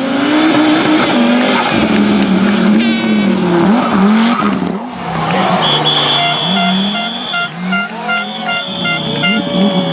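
Rally car engine revving hard, its pitch rising and falling with each gear change and lift. In the second half a steady high-pitched tone sounds over it two or three times.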